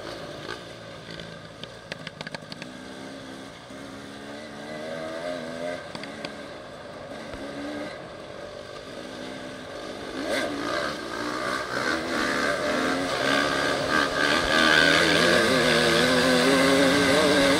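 Enduro motorcycle engine under way, its pitch rising and falling as the throttle is opened and eased. It grows much louder from about ten seconds in. A few sharp clicks come near the start.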